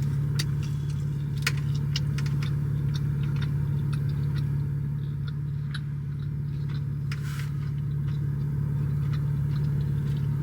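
Car engine idling, heard from inside the cabin as a steady low hum, with scattered small clicks and rustles of food and packaging being handled.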